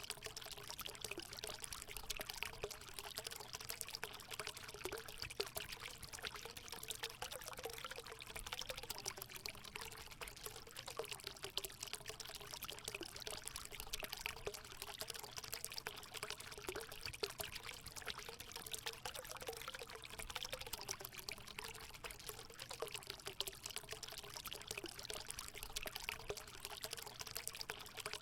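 Water running and splashing steadily into a hot spring pool, a continuous pouring trickle with many small splashes.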